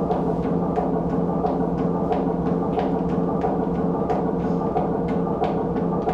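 Steady, dark droning soundtrack of held low tones, with irregular sharp clicks, about two or three a second, over it.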